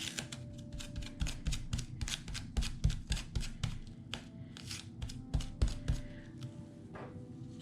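Paper and sticker pieces being handled at a craft table: irregular crisp rustles and taps, a few a second, some louder than others, over faint background music.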